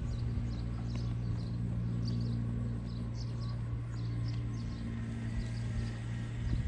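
Hoofbeats of a spotted saddle horse mare in keg shoes moving over the ground, over a steady low hum.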